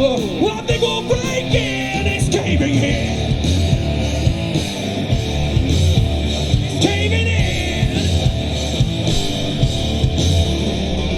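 Live rock band playing a song at full volume, with heavy bass and steady drum hits.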